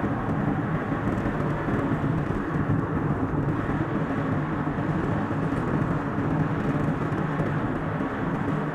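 Steady road and engine noise of a car driving on a highway, heard from inside the vehicle, played back at double speed.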